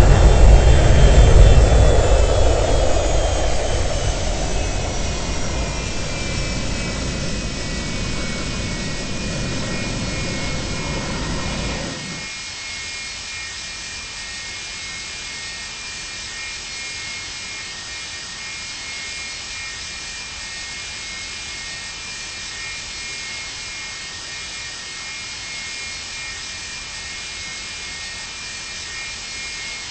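Boeing 737-200's Pratt & Whitney JT8D jet engines winding down from a loud roar. The engines' high whine falls in pitch over the first several seconds, then holds steady. A heavy low rumble cuts off suddenly about twelve seconds in, leaving a steadier, quieter hum and whine.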